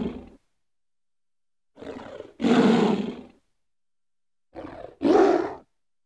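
Lion roaring in repeated calls, each a softer lead-in followed by a loud roar about a second long, with silence between. The end of one roar trails off at the start, and two full roars follow.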